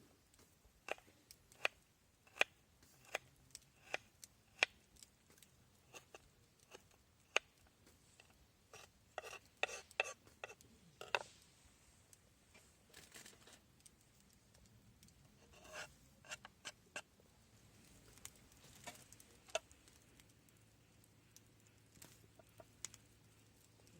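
A series of short, sharp clicks and snaps at irregular intervals, some in quick clusters, with no voice.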